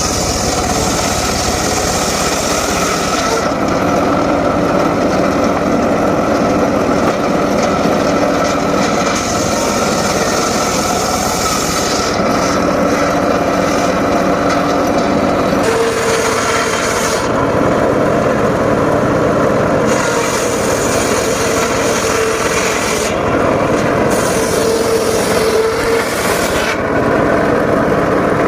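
Homemade circular saw running steadily while sawing mahogany, the blade's high hiss rising and dropping away several times as it bites into and leaves the wood over the steady hum of the drive.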